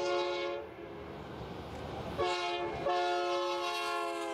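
Diesel freight locomotive's multi-chime air horn sounding a chord in blasts: one ending about half a second in, a short blast near the middle, then a long blast.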